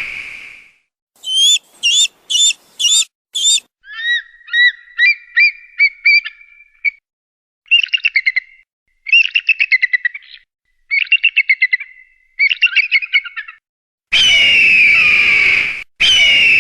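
Kite calls: five short high whistles, then a long run of trilling, whinnying whistles, and near the end two long, loud, harsh screams.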